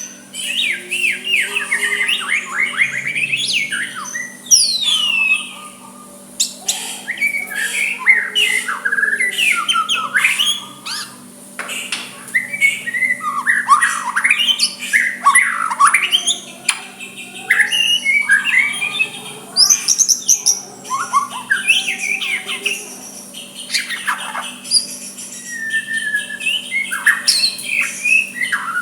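White-rumped shama singing a long, varied song of rapid whistles, chirps and sweeping notes, broken by brief pauses.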